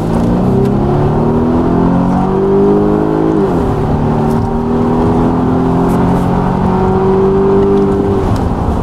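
Volvo XC90's engine at full throttle in a 0-to-100 km/h acceleration run, heard from inside the cabin. The engine note climbs, drops sharply as the automatic gearbox shifts up about three and a half seconds in, then climbs more slowly until a second upshift near the end.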